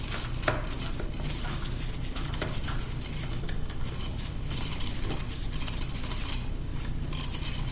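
Small metal laptop parts and tools clinking and scraping irregularly as a MacBook is pried apart, with scattered sharp clicks.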